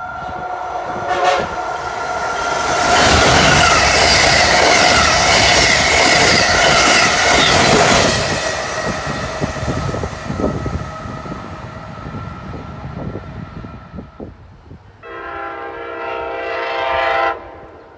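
Amtrak Acela Express trainset passing at speed close by: a loud rush of wheels and air that builds, peaks from about three to eight seconds in, then slowly fades. Near the end a single train horn blast of a little over two seconds cuts off abruptly.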